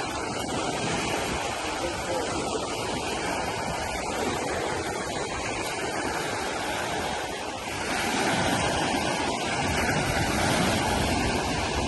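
Sea surf washing on the shore, with wind buffeting the microphone; it grows louder about eight seconds in.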